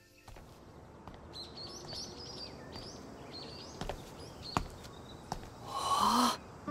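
Birds chirping outdoors: a run of short, quick high chirps over a soft steady background hiss, with a few faint clicks. Near the end comes a brief louder rush of noise.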